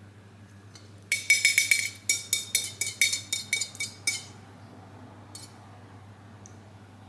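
A rapid run of light, ringing clinks, several a second for about three seconds, then a single clink a moment later.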